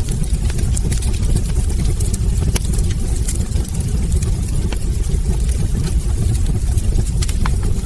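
Wood fire burning in a fireplace: a steady low rumble of the flames with frequent small sharp crackles and pops from the burning logs.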